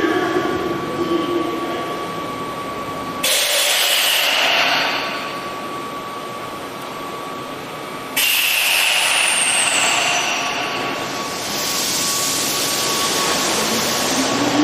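Tokyo Metro 5000 series train with a steady faint hum, broken by two sudden bursts of compressed-air hiss a few seconds apart. Near the end a rising motor whine begins as the train starts to move off.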